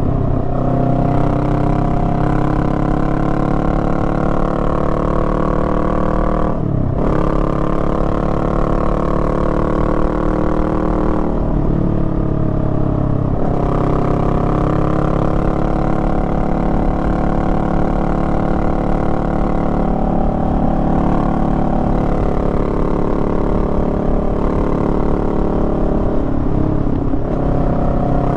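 Honda Rebel 500's parallel-twin engine running under way, its pitch rising and falling with the throttle. The sound dips briefly three times, each time climbing again in pitch.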